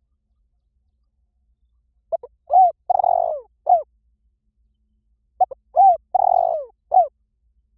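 Spotted dove cooing as a decoy call: two phrases about three seconds apart. Each phrase is a couple of short coos, then a longer, rougher middle coo and a final coo that falls in pitch.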